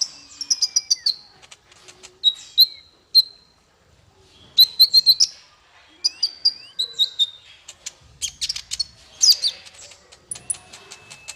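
Small songbird singing in quick phrases of sharp chips and high whistled notes, some sliding down in pitch, with short pauses between phrases.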